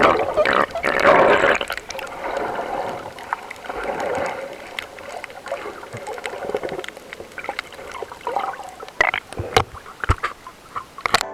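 Water sloshing and splashing close to the microphone, with scattered small clicks and knocks, as a snorkeler moves in the sea. It is loudest in the first couple of seconds, then settles to a softer, uneven slosh.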